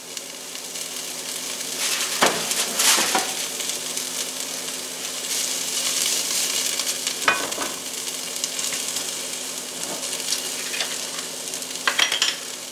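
Diced onion and spinach sizzling steadily in a ceramic nonstick skillet. A silicone spatula stirs the pan, with a few short scrapes and knocks about two seconds in, about seven seconds in and near the end.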